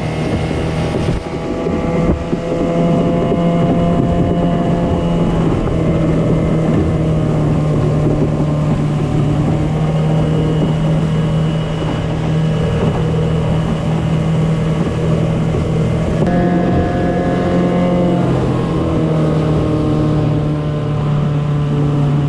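Mercury 15 hp two-stroke outboard running steadily under way, its pitch shifting briefly about two-thirds of the way through and starting to drop near the end as it is throttled back. Some wind on the microphone.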